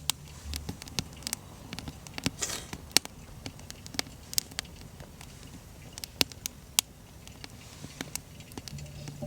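Wood fire crackling, with irregular sharp pops over a faint hiss.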